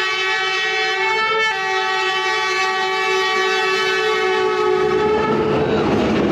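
Train horn sounding one long, loud two-tone blast that ends about five and a half seconds in, followed by the rushing noise of the train passing close by.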